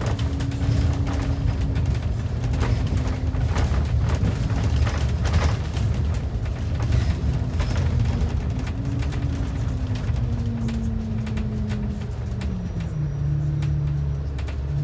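Transit bus running on the road: a steady low engine rumble with a whine that falls in pitch about ten to thirteen seconds in, and frequent rattles and knocks through the first half.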